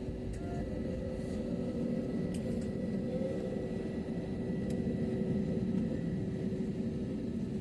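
Steady airliner cabin noise while the plane is on the ground before takeoff: a constant low rumble with engine and ventilation hum, and a few faint clicks.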